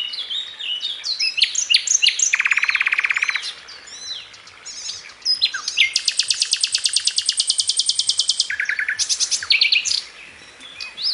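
Small birds chirping and calling in quick, high notes and sweeps, with rapid trills: a short buzzy one a little over two seconds in and a long, fast one from about five and a half to eight and a half seconds.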